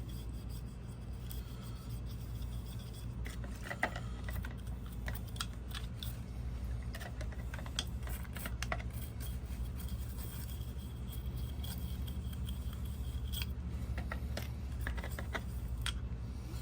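A laminating fin roller being scrubbed with a wire brush in solvent to clear epoxy out of it: a run of short, irregular scratching strokes over a steady low hum.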